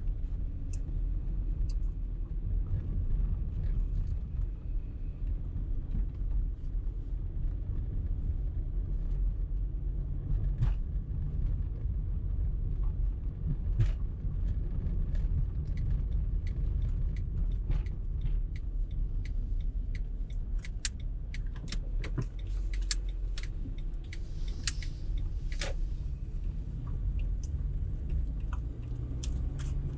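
A car in motion: a steady low rumble of engine and tyre noise, with scattered small clicks and ticks that grow more frequent in the second half.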